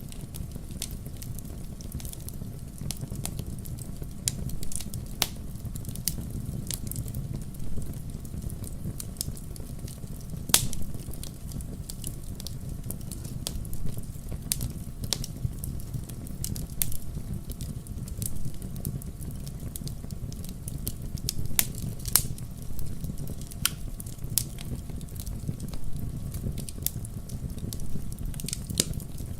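Wood fire in a fireplace crackling, with sharp irregular pops every second or two over a low steady rumble of the burning fire; the sharpest pop comes about ten seconds in.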